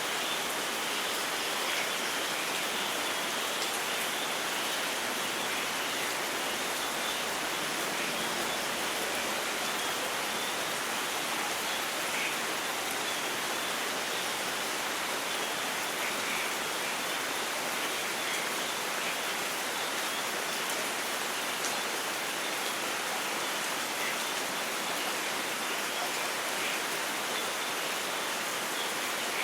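Steady heavy rain, an even, unbroken hiss with scattered drops ticking through it.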